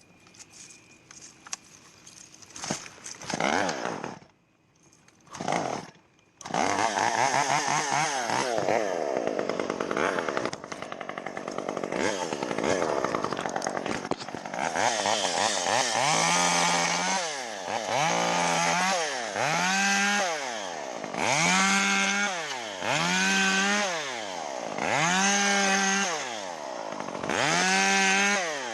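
Chainsaw running while a palm tree is trimmed. It gives two short bursts, then runs steadily. From about halfway on it is revved up and dropped back again and again, every second and a half or two.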